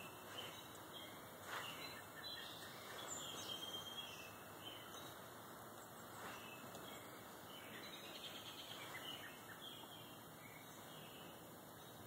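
Faint birdsong: scattered short chirps and calls from several birds, over a steady background hiss.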